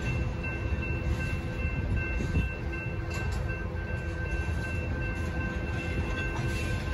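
Freight cars of a Union Pacific manifest train, covered hoppers and tank cars, rolling through a grade crossing with a continuous rumble. A few steady high tones sound throughout, consistent with the active crossing signal's bell.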